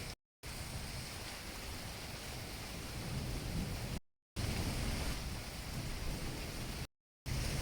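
Steady rain with a low rumble underneath, cutting out to silence three times for a split second.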